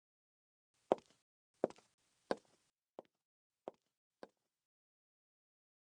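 Six sharp knocks or taps at an even pace, about two-thirds of a second apart, the last three fainter.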